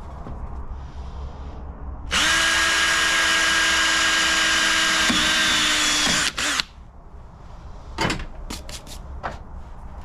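Hand-held power drill running at a steady speed for about four seconds, its pitch dipping slightly just before it stops, then a short second burst. A few sharp clicks follow.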